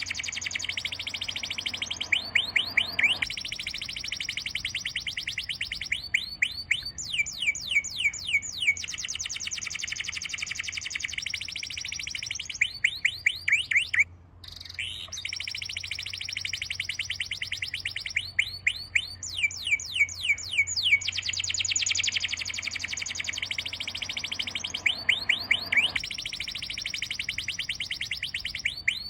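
Birdsong: fast, high-pitched trills and chirps repeating in runs, with a brief gap about halfway through.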